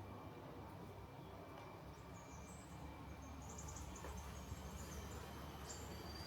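Faint outdoor ambience: short high-pitched chirps, some in quick runs, over a steady low rumble.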